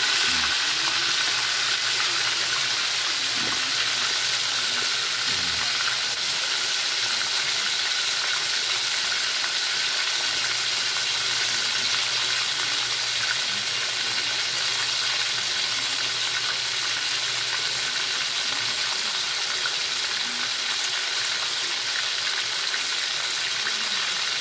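Marinated pork chops frying in hot oil in a skillet, sizzling steadily.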